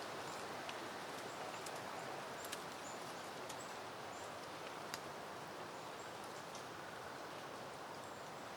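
Soft, steady wind rustling through leafy peony plants, with a few light clicks and faint high chirps scattered over it.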